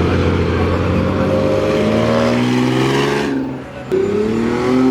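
Car engine accelerating hard, its pitch climbing for about three seconds. It drops off suddenly about three seconds in, then comes back in sharply and climbs again, like a gear change under hard acceleration.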